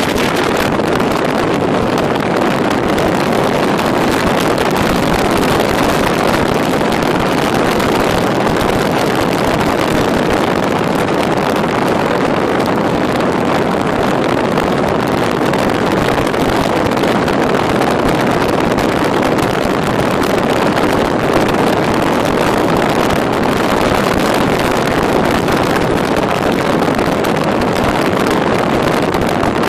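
Steady road and wind noise of a car driving along a highway, an even rush with no distinct events.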